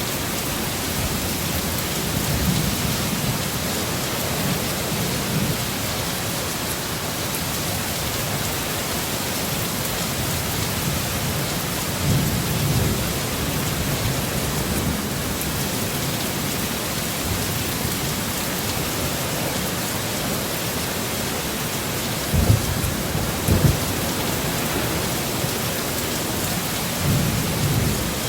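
Heavy rain falling steadily, with low rumbles of thunder swelling up a few times and two sharper low thumps a little after two-thirds of the way through.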